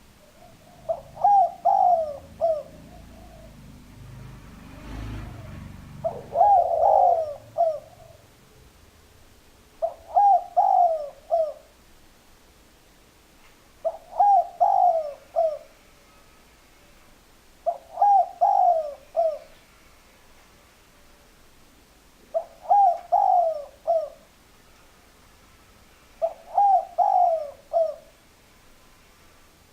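A spotted dove cooing: the same short multi-note phrase repeats about every four seconds, seven times.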